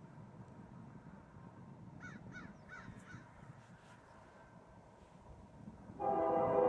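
A bird calls four times, short harsh calls, about two seconds in, over a low wind rumble. About six seconds in, a CSX freight locomotive's air horn starts sounding, a loud steady chord of several notes.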